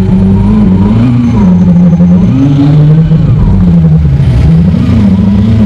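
McLaren 765LT's twin-turbo V8 heard from inside the cabin. Its note rises and falls in small swells as the car drives slowly. The sound is sped up threefold with the pitch kept normal.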